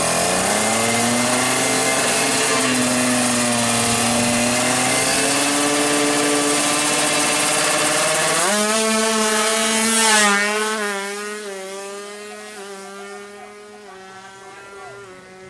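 Tuned 155cc two-stroke drag bike engine held at high revs with a slight waver, then jumping up in pitch and getting louder about eight seconds in. It peaks around ten seconds and then fades steadily over the last few seconds.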